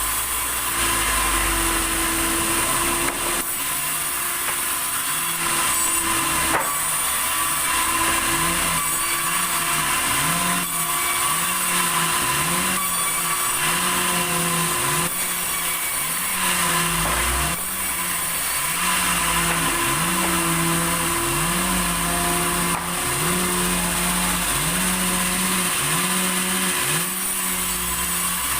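Sawmill saw running and cutting a log of red tasak wood, a steady machine noise throughout. Under it a low hum rises and dips in pitch about once a second.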